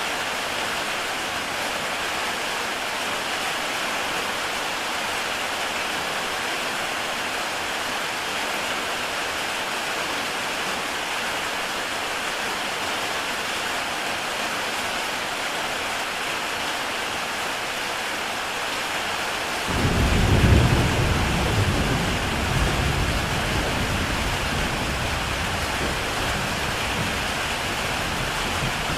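Heavy rain falling steadily on a tile roof. About two-thirds of the way in, a sudden deep rumble of thunder breaks in, loudest at once, swells again briefly and rolls away over several seconds under the rain.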